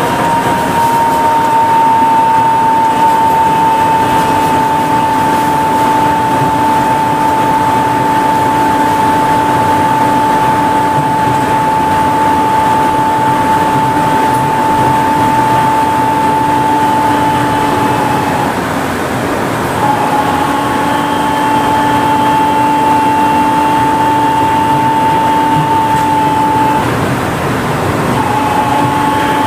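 Kanazawa Seaside Line 2000-series rubber-tyred automated guideway train running at speed, heard from inside the car: a steady high electric drive whine over a rumble of running noise. The whine cuts out briefly twice, about two-thirds of the way in and near the end, and comes back each time.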